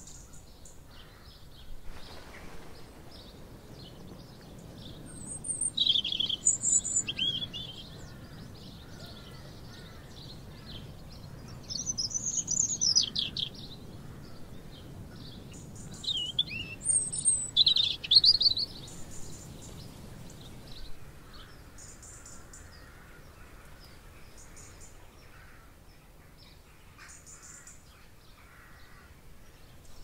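Songbirds singing: three loud warbling song phrases, with fainter chirps from other birds throughout. A low background rumble sits underneath and fades about two-thirds of the way through.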